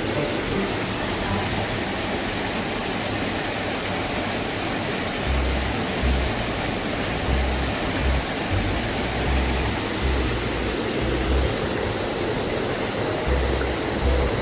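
Waterfall pouring into a deep pool: a loud, steady rush of falling water, with irregular low rumbles beneath it from about five seconds in.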